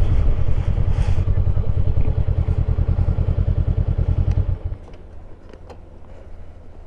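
Honda CB500X's parallel-twin engine idling with an even, pulsing beat, then stopping abruptly about four and a half seconds in.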